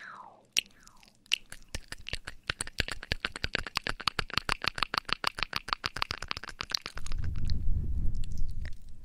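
Close-miked ASMR triggers on a binaural microphone: a short falling swish, then a fast run of crisp crackling taps at about eight a second. About seven seconds in, this gives way to a low, muffled rubbing on the microphone.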